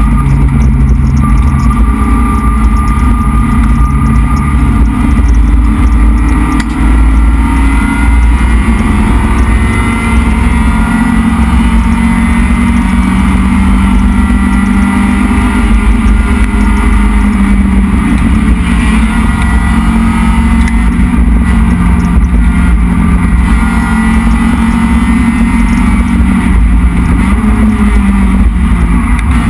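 The SOHC 2.0-litre four-cylinder of a Neon race car running hard at high revs, heard from inside the stripped, roll-caged cabin with heavy road and wind rumble. The engine note dips briefly about six seconds in, then climbs slowly and holds steady.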